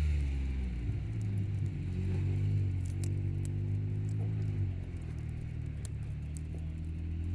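Car engine running with a low, steady hum; its pitch rises slightly about a second in, holds, and settles back down about halfway through. Faint crackling clicks sit over it.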